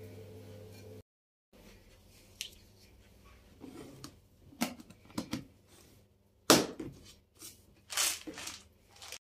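Household items and containers being handled and set down: scattered knocks, clicks and rustles, the loudest knock about six and a half seconds in and a longer rustle about eight seconds in. A low steady hum runs for the first second and then cuts off.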